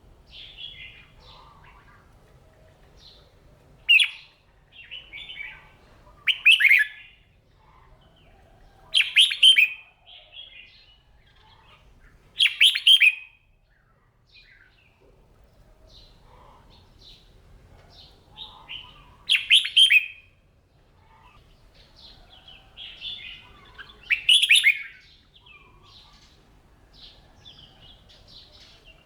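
Red-whiskered bulbul singing: six loud, short song phrases a few seconds apart, with softer chirping notes between them.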